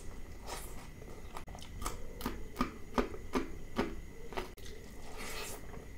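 A man eating close to the microphone: mouth sounds of chewing and biting food, with wet smacks and sharp clicks about two to three a second through the middle.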